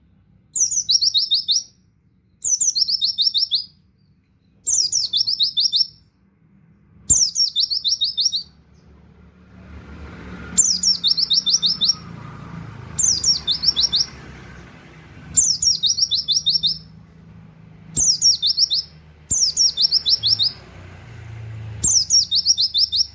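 A pleci (white-eye) singing the same short burst over and over: a high falling note, then a quick string of about eight falling 'wit' notes, each phrase about a second long and repeated every two seconds or so. A faint low rumble sits under the song through the middle.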